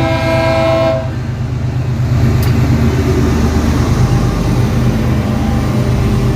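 Diesel freight locomotive horn holding a multi-note chord that cuts off about a second in, followed by the locomotives' diesel engines running loudly as the train passes close by.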